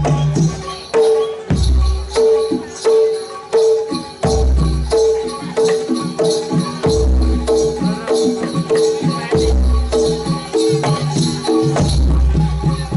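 Javanese jaranan gamelan music played loud through a sound system: pitched metal percussion repeats a short melody of quick notes over drum strokes and jingling high percussion, with a deep low beat about every two and a half seconds.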